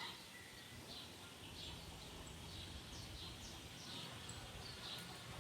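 Birds chirping, short falling calls about twice a second, faint over a low steady hum.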